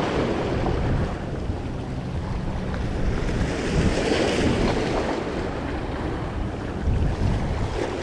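Wind buffeting the microphone over the steady wash of sea waves, with no other distinct sound.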